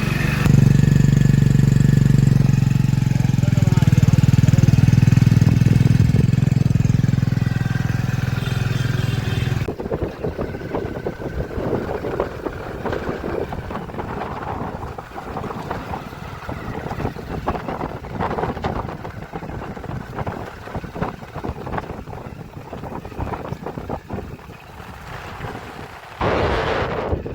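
A vehicle engine running steadily at a low, even pitch for about ten seconds. It cuts off abruptly into a rough noise with many small knocks and rattles, and a louder rushing noise starts suddenly near the end.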